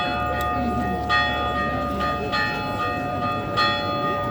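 Church bell tolling with a slow, even stroke about every 1.2 seconds, four strikes, each one ringing on into the next.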